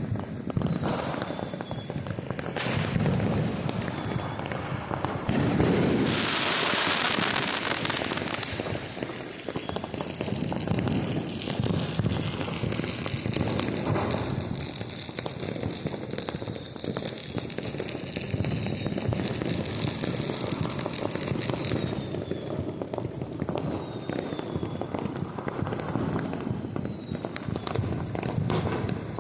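Diwali fireworks and firecrackers going off without a break: a steady crackle with scattered sharp bangs and several short falling whistles. About six seconds in there is a loud hissing rush lasting roughly three seconds.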